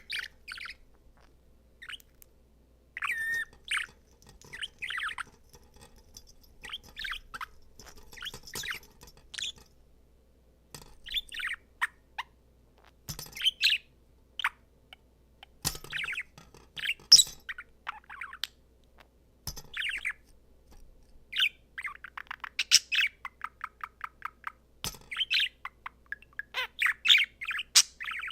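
A male budgerigar warbling and chattering: bursts of quick chirps and twittering phrases with short pauses between them, becoming a denser run of warble near the end, mixed with a few sharp clicks.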